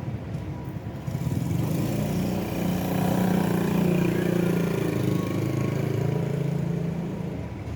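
A motor vehicle's engine passing by: it grows louder about a second in, holds for several seconds and fades near the end.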